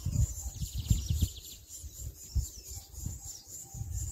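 A bird trills briefly, a quick run of high notes about half a second in, over irregular low thuds.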